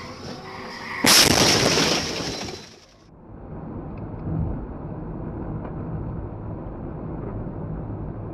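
A car crash: a sudden loud impact with breaking and shattering about a second in, dying away over a second or so. After a cut, a steady low rumble of a vehicle on the road follows.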